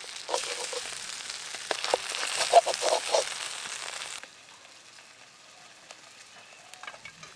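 Hilsa roe sizzling in hot oil in a metal wok, with a metal spatula scraping and knocking against the pan several times. The sizzle cuts off suddenly about four seconds in, leaving only faint small clicks.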